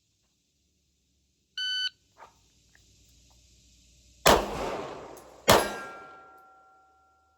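A shot timer beeps once, then about two and a half seconds later a Glock 45 9mm pistol fires two shots about 1.2 seconds apart. The second shot is followed by a lingering metallic ring.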